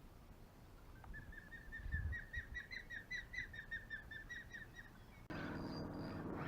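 A bird calling: a long series of short, quick whistled notes, about five a second, for about four seconds. About five seconds in, a faint steady motor hum starts.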